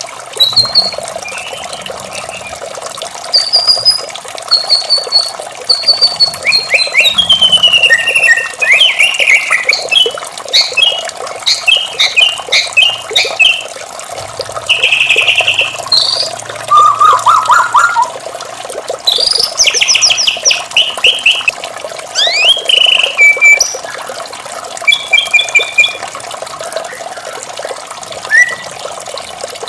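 White-rumped shama singing a varied song of clear whistles, fast trills and harsh chattering notes, phrase after phrase, over a steady rush of running water.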